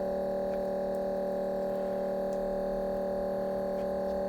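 A steady hum made of several level pitches that does not change, with a few faint small clicks.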